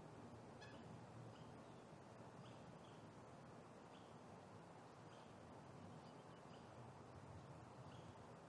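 Faint outdoor ambience: a small bird gives short, high chirps about once a second over a steady low background hiss.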